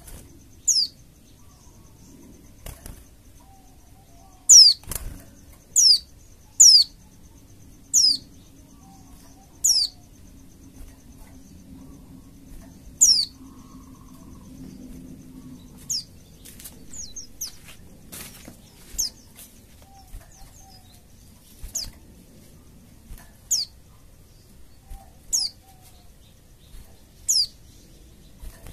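Pleci (white-eye) calls played as a lure: short, high notes that sweep quickly downward, repeated every one to three seconds.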